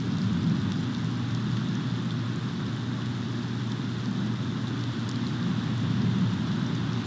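Steady storm noise on an outdoor nest-cam microphone: wind and falling precipitation, with no distinct events.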